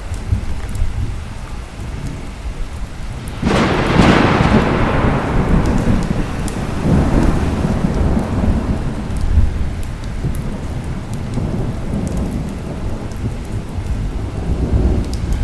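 Thunderstorm with steady rain and rolling thunder. A loud thunderclap breaks about three and a half seconds in and rumbles away over several seconds, with another swell of rumble a few seconds later.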